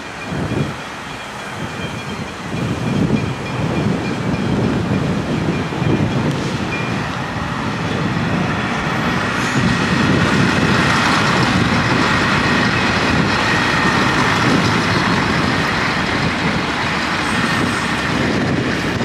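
V/Line Sprinter diesel railcars passing close by, engine running and wheels rolling on the rails, growing louder over the first ten seconds and then holding steady.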